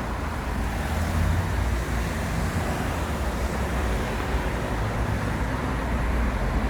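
Steady roadside traffic noise of passing cars, with a constant low rumble.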